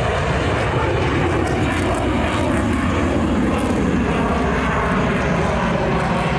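An F/A-18 Super Hornet's twin General Electric F414 turbofan jets flying a demonstration pass, giving a loud, steady rush of jet noise.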